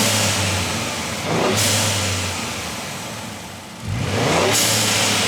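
Next-gen Ford Ranger Raptor's twin-turbo V6 revved repeatedly through its mid-pipe exhaust. The pitch rises about a second in and again about four seconds in, and each rev is followed by a loud rushing noise.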